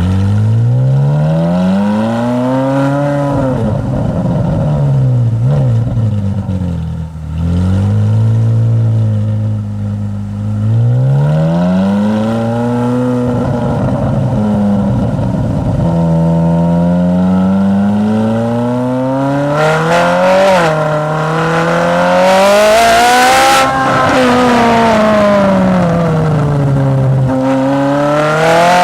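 Ferrari 458 Italia's V8 through an Akrapovic exhaust, revving up and easing off several times in long rising and falling sweeps. The highest, loudest rev comes about two-thirds of the way in.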